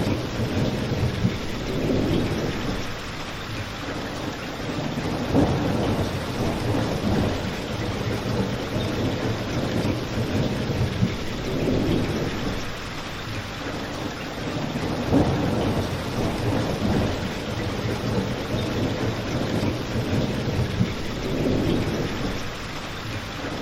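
Steady rain falling, with fireplace crackles ticking over it and a low rumble that swells and fades every few seconds.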